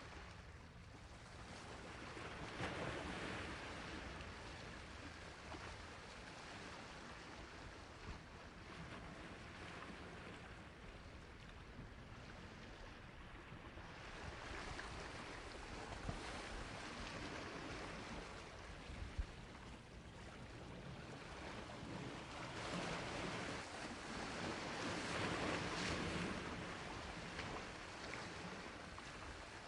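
Sea waves washing onto a shore, rising and falling in slow swells, the biggest surge building toward the end, with a few faint sharp clicks in between.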